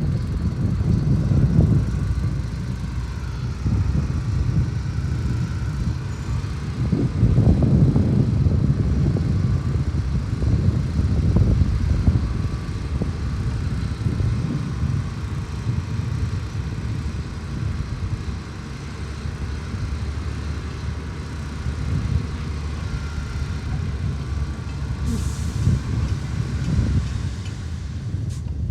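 Heavy diesel earthmoving machinery running and working, a deep rumble that swells and eases under load. A short burst of hiss comes near the end.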